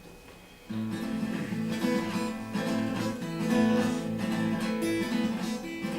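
Acoustic guitar strummed, playing the instrumental introduction of a song; it comes in suddenly less than a second in after a brief hush.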